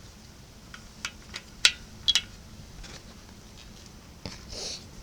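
A handful of short, sharp clicks and taps, about five in quick succession, followed near the end by a brief soft hiss.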